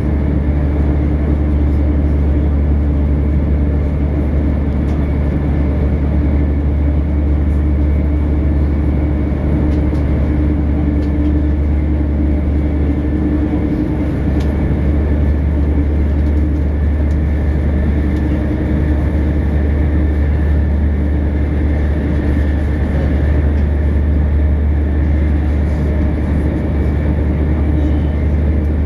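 Inside a moving passenger train carriage: the steady low rumble of the train running along the track, with a constant hum over it and a few faint clicks.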